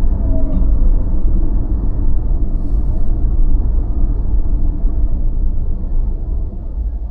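Car driving on city streets: a steady low rumble of engine and road noise.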